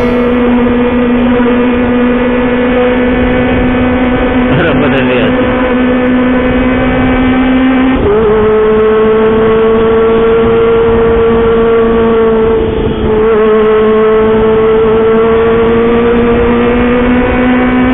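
Kawasaki ZX-25R inline-four engine running at high revs through a loud home-made aftermarket exhaust while riding, a steady high-pitched drone with slight shifts in pitch and a brief dip in level near the end.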